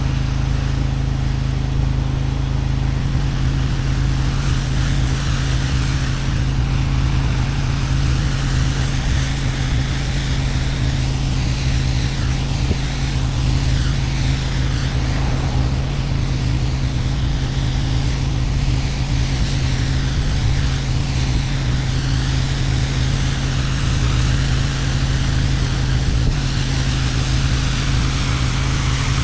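Gas pressure washer engine running steadily under load, with the steady hiss of high-pressure water spraying onto concrete.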